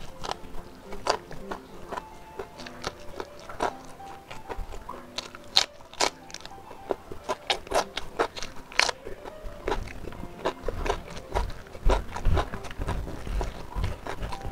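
Close-up mouth sounds of a person eating with his hands: wet chewing and smacking of smoked beef and rice, with sharper crunches from biting raw green vegetables, busiest in the middle. Soft background music with held notes plays underneath.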